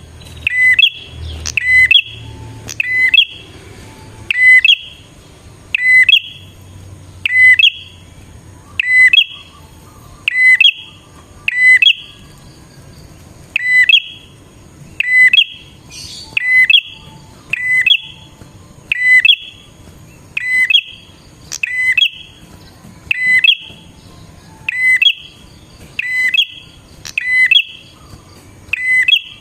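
Prinia (prenjak) calling, a loud sharp note repeated over and over in an even rhythm, about one and a half notes a second.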